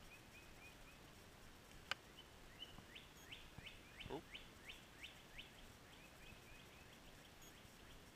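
Faint birdsong: a songbird gives a string of about eight quick down-slurred notes, roughly three a second, with short high chirps before and after. A single sharp click about two seconds in, and a lower falling sound about four seconds in.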